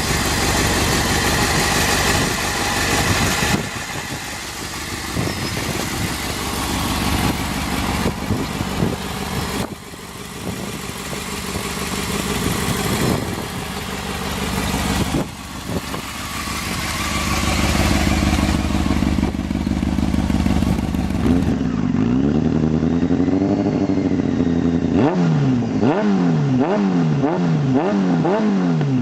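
Honda CBR600 inline-four sport bike engine and exhaust running hard, with a lot of rushing noise for most of the stretch. Near the end the engine is revved up and let fall repeatedly, the pitch rising and dropping about once a second.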